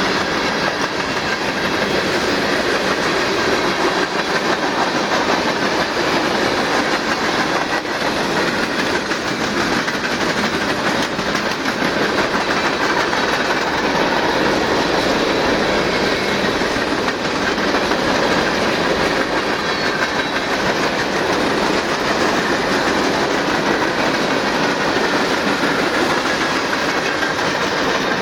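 Freight cars of a long manifest train rolling past, wheels clicking over the rail joints in a steady, unbroken clatter.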